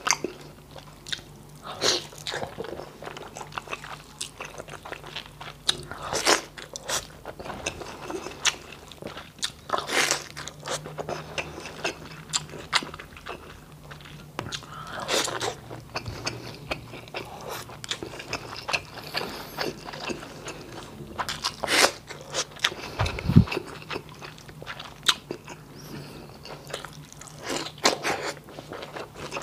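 Close-miked chewing and lip-smacking on boiled beef and rice, with irregular wet mouth clicks and smacks throughout.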